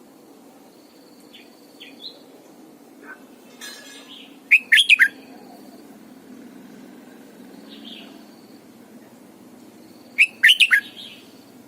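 Red-whiskered bulbul singing: two short, loud phrases of quick rising-and-falling notes about five seconds apart, with a few softer chirps between them, over a steady low hum.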